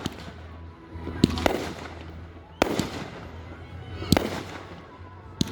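Fireworks display: shells bursting in the sky with sharp, irregular bangs about a second or so apart, six in all.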